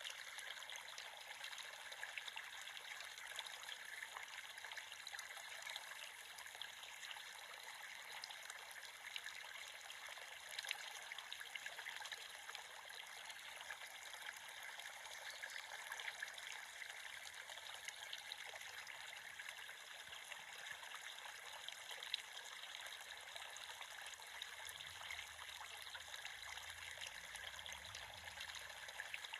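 A small creek babbling and trickling steadily over stones, with fine splashing and gurgling.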